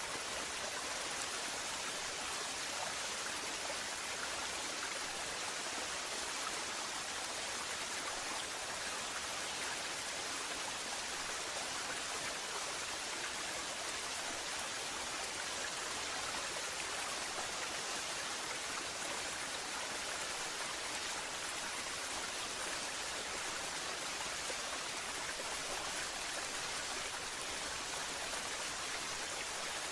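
Waterfall: falling water splashing steadily in an even hiss, with no change or separate events.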